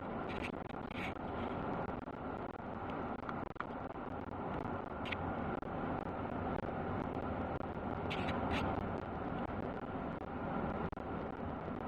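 Pickup truck driving, heard from inside the cab: a steady rumble of road and engine noise, with a few faint clicks or rattles, two of them close together past the middle.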